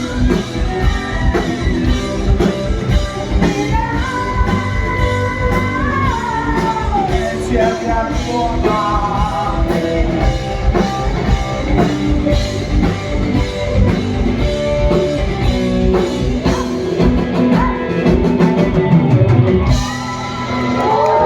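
Rock band playing an instrumental stretch of a song: a bending high melodic line over drums and bass, with the band stopping abruptly near the end.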